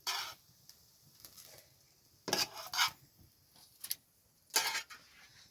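Metal dishes and utensils clattering and scraping in a few short bursts, like a spoon stirring or scraping a pot.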